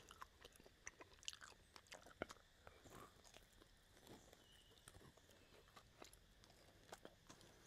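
A person gnawing and chewing meat off a pork rib bone, heard faintly as irregular small mouth clicks and chewing sounds.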